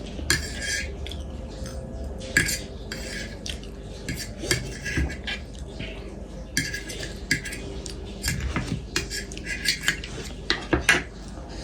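Cutlery clinking and scraping against a dish in many quick, irregular strokes, as the last of a bowl of instant noodles is scraped up and eaten.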